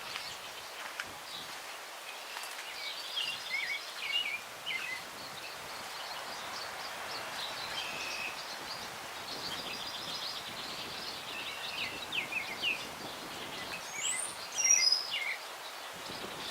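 Several songbirds chirping and trilling over a steady breeze through the trees. A louder, higher call comes near the end.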